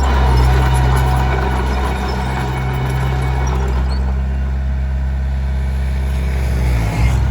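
Komatsu D21P bulldozer's diesel engine running steadily under load, with more clatter over it in the first two seconds. The engine note dips briefly about seven seconds in.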